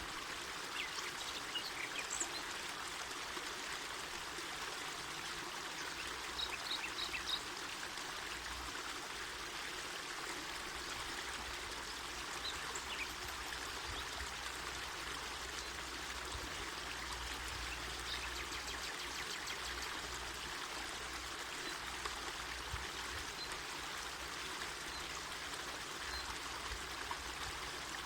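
Mountain forest river flowing with a steady, even rush of water.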